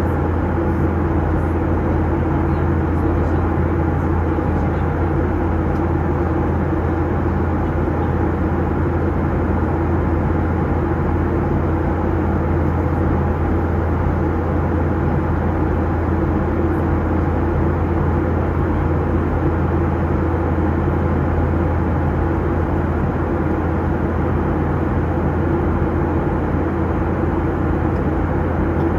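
Steady cabin drone of a Boeing 737-800 in flight: engine and airflow noise with a strong low hum, unchanging throughout.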